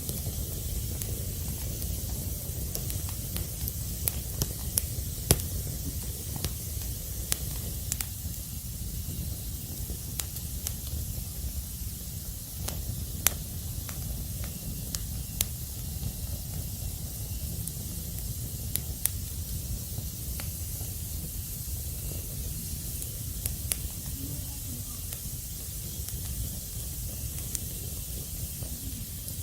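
Wood fire crackling: a steady hiss with irregular sharp pops scattered through it.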